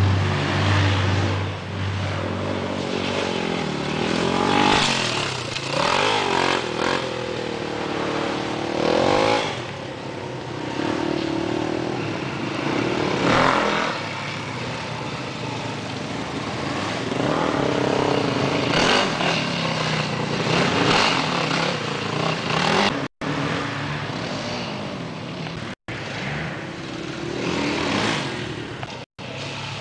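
Dirt bike engines running and revving, their pitch rising and falling as the bikes ride through mud. The sound drops out briefly three times near the end.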